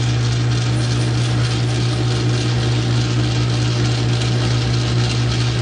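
South Bend 9-inch lathe running under power, a steady, even low hum with a constant machinery noise above it.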